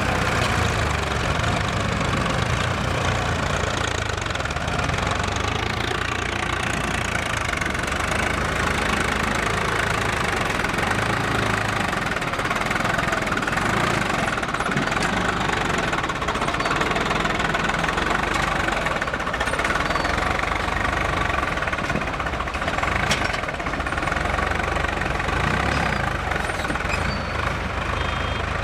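Heavy diesel engine running steadily with a knocking diesel clatter, level throughout.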